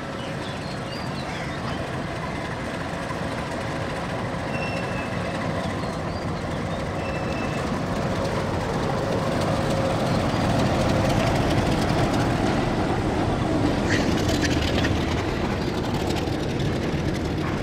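Freight train of broad-gauge bogie oil tank wagons rolling past: a steady rumble of wheels on rails that grows louder toward the middle, with a few sharp clicks near the end.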